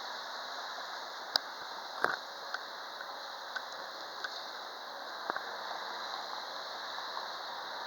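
Heavy wind blowing as a steady, even hiss, with a few faint clicks and ticks scattered through it.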